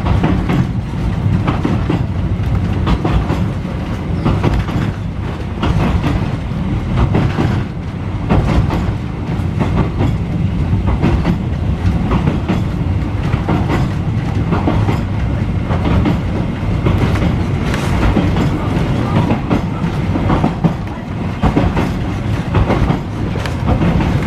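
Melbourne W2 class tram running along the track on a ride, its wheels clacking irregularly over the rail joints under a steady rumble of running gear.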